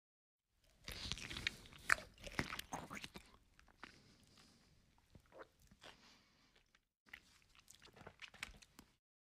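Close-up chewing and crunching of a mouthful of food eaten by hand. A dense run of crunches comes in the first few seconds, then thins out, and a second run of chewing comes near the end.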